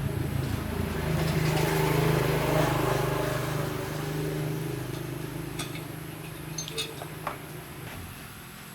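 A motor running with a steady low hum that swells and then fades away, followed by a few light clicks near the end.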